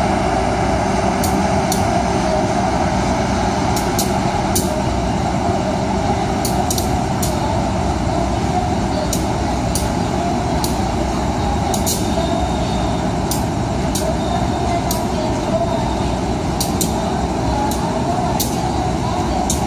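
Diesel locomotive engine running steadily close by, under an even rumble of a passenger train rolling past, with sharp irregular clicks of its wheels crossing rail joints.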